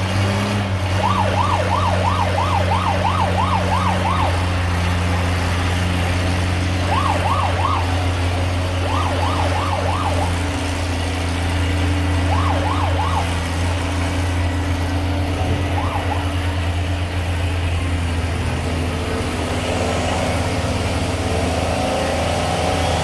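Oliver pulling tractor's engine running hard under load as it drags the weight-transfer sled down the track: a steady low drone. A warbling, siren-like wail comes and goes in short bursts during the first half, and the pitch rises near the end.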